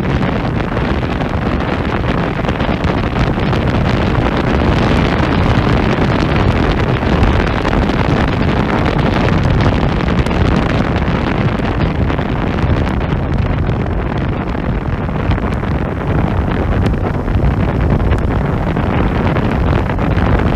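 Hyosung GV125 S Aquila motorcycle ridden at speed, its engine and aftermarket Sound Control exhaust mixed with heavy wind rushing over the microphone. Loud and steady throughout, with no clear rev changes.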